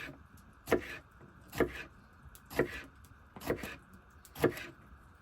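Kitchen knife chopping a jalapeño, with five evenly spaced cuts about one a second.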